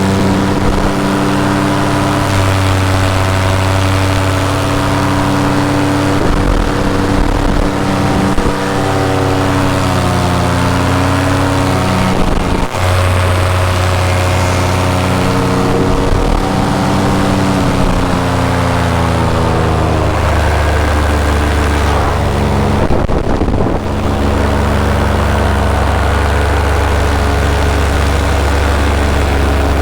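Paramotor engine and propeller running in flight, heard from the pilot's seat, the engine note falling and rising a few times as the throttle is worked.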